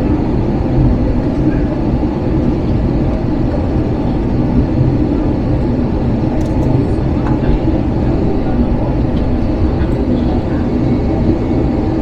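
Steady, loud low rumble inside the cabin of an Airbus A321: engine and airflow noise, with a few faint ticks.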